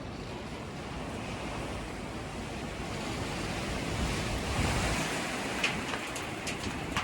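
Strong, gusty storm wind blowing against the microphone. It swells into a louder gust about four seconds in, and a few sharp clicks or knocks come near the end.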